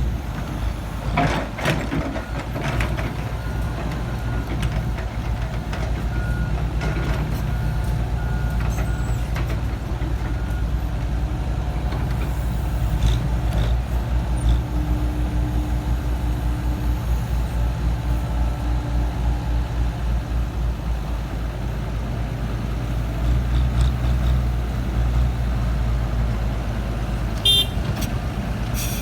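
Komatsu PC70-8 excavator's diesel engine running steadily under working load, with a few sharp metallic clanks.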